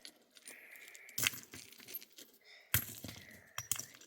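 Small stones clacking against each other as they are handled: a few sharp clinks, the loudest about a second in and just under three seconds in.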